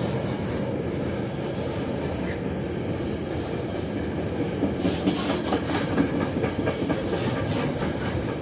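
Freight train of sliding-wall covered wagons rolling past at steady speed, a continuous rumble of wheels on rail. From about halfway through a rapid clatter of wheel clicks and rattles joins in and grows louder.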